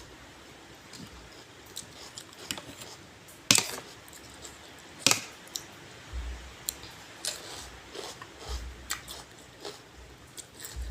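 Close-up eating sounds: crunchy bites and chewing of raw vegetables and lotus-stem salad, with scattered sharp clicks, the two loudest about three and a half and five seconds in.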